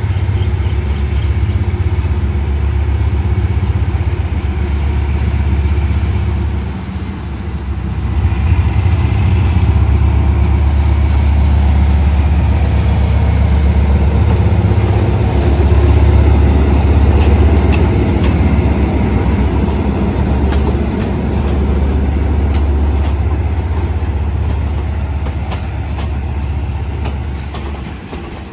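Diesel locomotive engine running with a heavy low rumble that dips briefly and comes back up, with scattered sharp clicks in the latter half.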